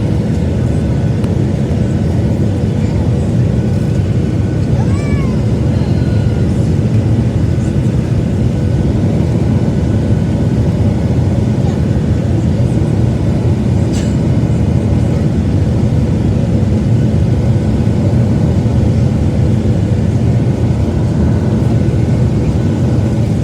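Steady cabin noise inside a Boeing 737-800 on approach: a low, even rumble of its CFM56 engines and the airflow, with a faint steady hum. A brief squeak about five seconds in and a sharp click around fourteen seconds.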